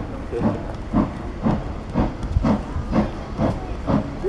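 Steam locomotive chuffing in a steady rhythm, about two puffs a second, with hissing steam.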